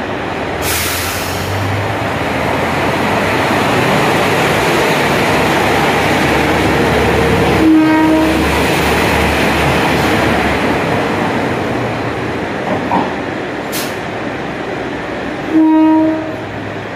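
Diesel railcar pulling out and running past close by, its engine and wheels a steady rumbling noise that swells towards the middle, with a short horn blast about eight seconds in and another near the end. A brief hiss of air comes about a second in.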